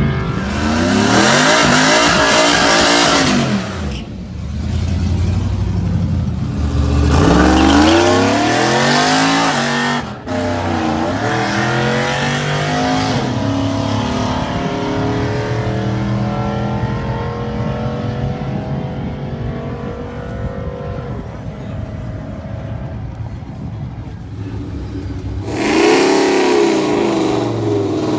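Drag-racing truck engines revving hard in rising-and-falling bursts. Then one engine note climbs steadily for several seconds as a truck accelerates down the strip, and another burst of revving comes near the end.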